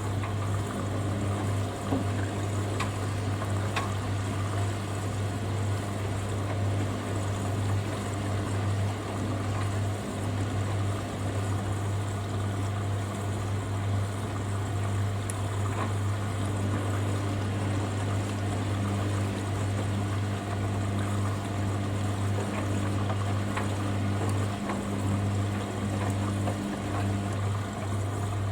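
Hoover Dynamic Next washing machine near the end of its cycle: a steady low hum with water pouring and trickling through it, typical of the drain pump emptying the drum. The hum dips briefly a few times.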